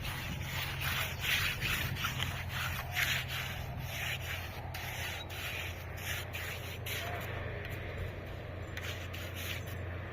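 Repeated rough scraping strokes, several in quick succession and thinning out after about seven seconds, over a steady low hum.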